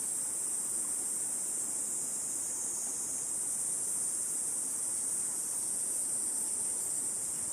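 A steady, high-pitched drone of summer cicadas over the even rush of river water flowing.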